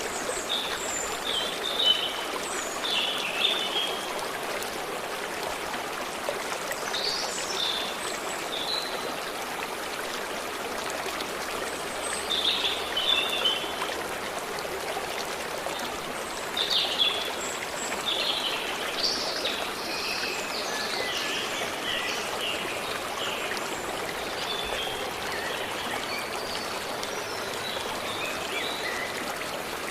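Steady flow of a forest stream, with small birds singing short chirping phrases over it now and then, more often in the second half.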